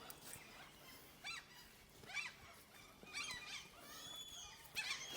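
Faint, short, high-pitched animal calls, about five of them spread through the few seconds, each bending up or down in pitch.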